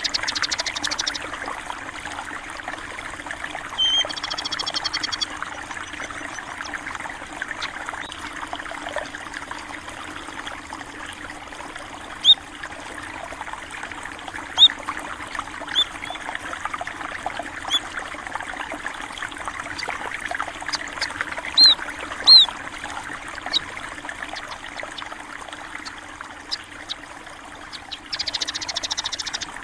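Water trickling and flowing steadily, with small birds giving short, high chirps every second or two in the middle stretch. A brief buzzy trill comes about four seconds in.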